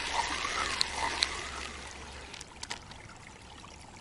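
Faint trickling river water with a few light clicks, growing quieter toward the end.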